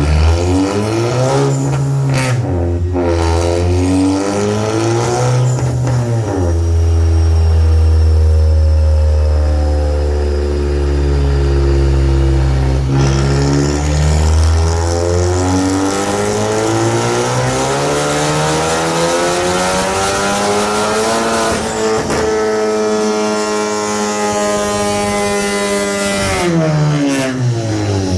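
Car engine under full throttle on a chassis dyno during a power pull: the revs dip and rise a few times, then climb steadily for about eight seconds before the throttle is lifted abruptly, and the engine winds down near the end.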